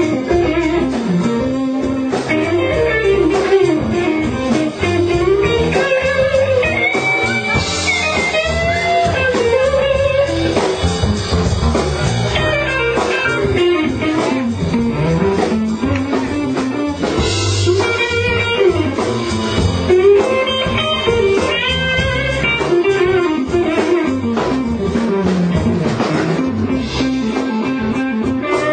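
Blues music led by electric guitar, playing a melodic line with notes that bend up and down in pitch.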